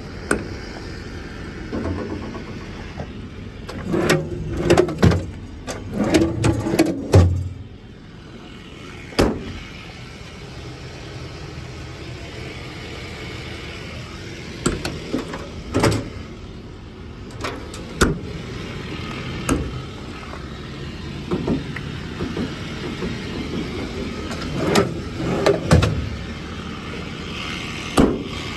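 Metal parts of a service truck body being handled: clunks, knocks and rattles in bursts, around four to seven seconds in, again around fifteen seconds and near twenty-five seconds, with single knocks between. A steady hum runs underneath.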